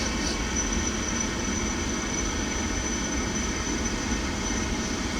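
Gas pool heater running: a steady, even mechanical drone with a faint high whine over it.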